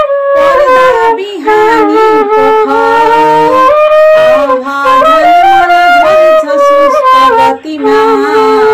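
A woman's voice chanting a Nepali metrical poem in a sung melody, holding notes and gliding between them, with short breath pauses.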